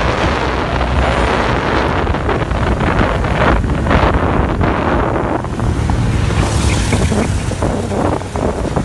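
Motorcycle riding at speed, its engine droning steadily under heavy wind buffeting on the microphone.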